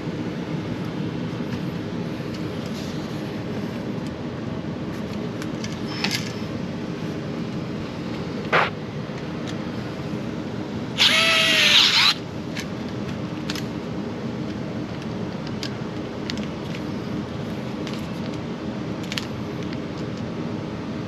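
A power drill runs once for about a second, a whine that shifts in pitch, as a switch is fastened in during a light-switch replacement. A steady low hum runs underneath, and a sharp click comes a few seconds before the drill.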